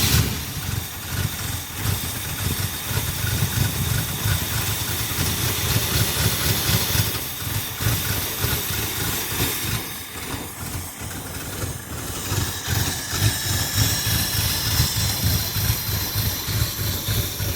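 Engine of a car that had sat unused for about a year and a half, running just after being restarted, held on a little throttle. It runs with an uneven low pulsing and a steady hiss over it.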